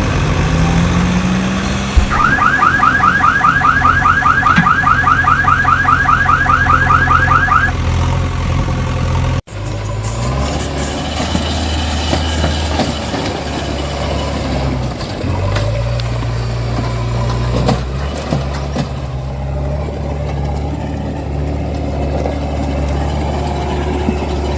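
Heavy diesel engines of a backhoe loader and truck running, with a loud electronic alarm warbling in quick rising chirps, about four or five a second, for some five seconds near the start. After an abrupt cut the engine runs on and revs up briefly in the second half.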